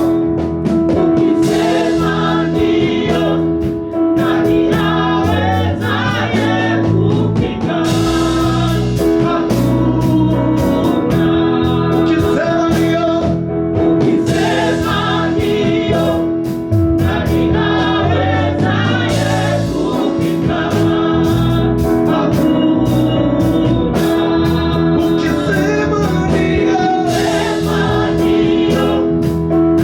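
Gospel worship song: a choir singing over a band, with a held keyboard chord, a moving bass line and drums keeping a steady beat.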